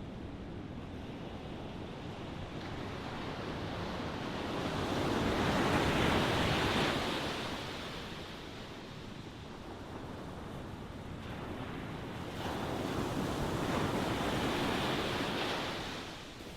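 Ocean waves breaking and washing on the shore, a steady surf hiss that swells twice, about six seconds in and again from about twelve seconds to near the end.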